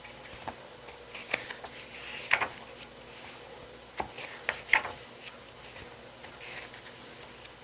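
Pages of an album photo book being turned and handled: soft paper rustles with a few sharp taps and clicks, the loudest about two and a half and five seconds in.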